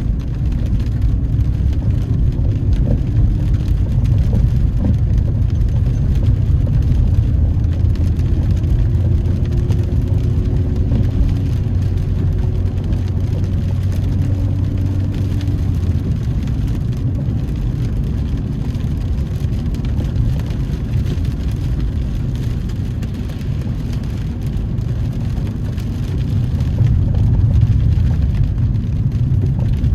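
Road noise inside a moving car: a steady low rumble of engine and tyres, with a faint hum that holds for several seconds in the middle.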